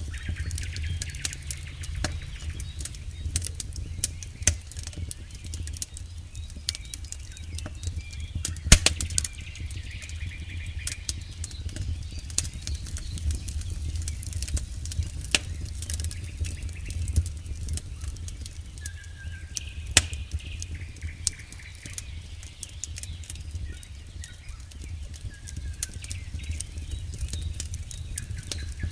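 Wood campfire burning, with irregular crackles and pops over a low steady rumble of the flames; the sharpest pops come about 9 and 20 seconds in.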